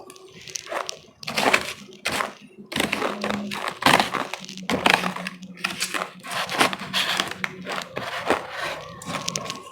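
Close-miked biting and chewing of powdery ice, a rapid, irregular run of crisp crunches.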